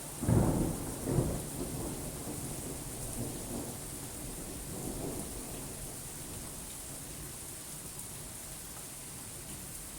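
A thunderclap breaks suddenly just after the start, with a second crack about a second in, then rumbles away over the next few seconds. Steady rain falls throughout.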